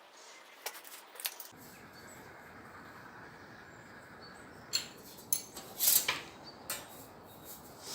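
Scattered sharp metallic clinks and knocks of sheet metal and tools being handled during fabrication, loudest about six seconds in, over a low steady hiss.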